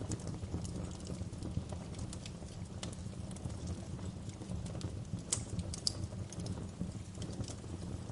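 Wood fire crackling in a fireplace: irregular small pops and snaps over a steady low rumble of the flames, with a couple of sharper pops a little past the middle.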